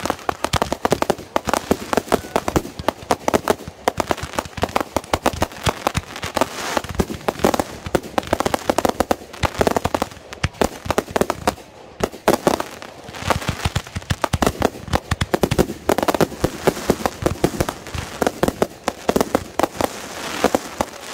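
Consumer fireworks going off in a dense, rapid string of sharp pops and bangs, with a brief lull about twelve seconds in.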